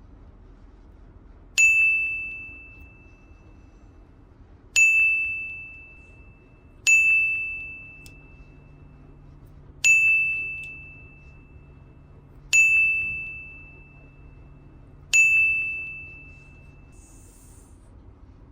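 A bell-like ding sounds six times at irregular gaps of two to three seconds. Each is a single clear high note that rings out and fades.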